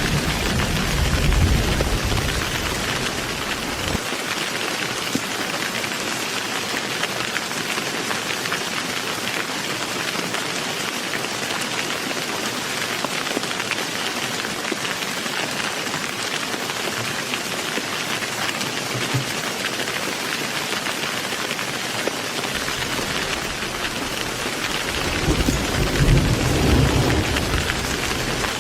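Heavy rain falling in a steady, even hiss. A low rumble of thunder dies away in the first few seconds, and another rumble builds near the end.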